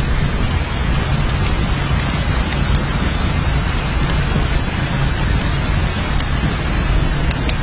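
Steady rain falling, an even hiss of drops with scattered sharp ticks and a constant low rumble underneath.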